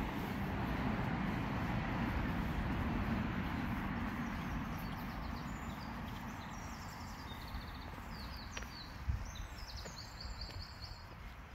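Passing road traffic, its noise swelling and then fading over the first half, while a small songbird sings a run of quick high chirps and trills. There is a single knock about nine seconds in.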